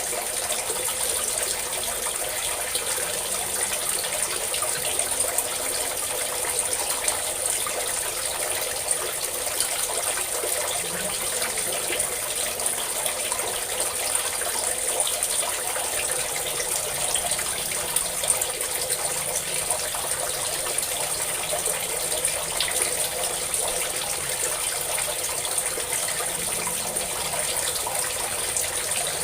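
Water pouring steadily in a continuous stream, with a constant splashing hiss and no let-up.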